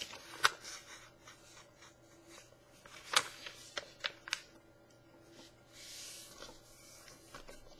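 A sheet of paper being handled and folded into a paper airplane: a few sharp crinkles and taps, the loudest about half a second and three seconds in, then a soft rubbing swish near six seconds as a crease is pressed down.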